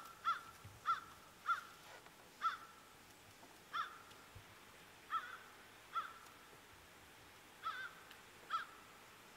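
A bird giving about ten short caws in a loose series, roughly half a second to a second and a half apart, that stop near the end.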